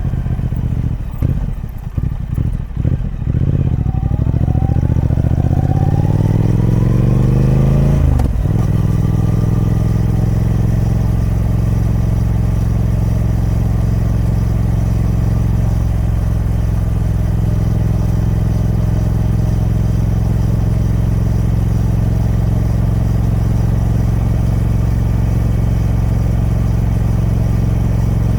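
Triumph Speed Twin 1200's parallel-twin engine on its stock exhaust, choppy for the first couple of seconds, then rising in pitch for about five seconds. After a sudden break in the note about eight seconds in, it settles into a steady, even drone.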